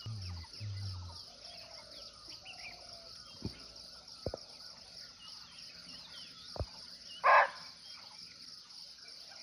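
Forest insects trilling steadily, with scattered small bird chirps. About seven seconds in, a barking deer (muntjac) gives one short, loud, harsh bark. Two brief low sounds come in the first second.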